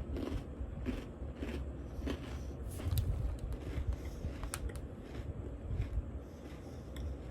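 Irregular crinkles and clicks of an opened plastic Oreo package being handled.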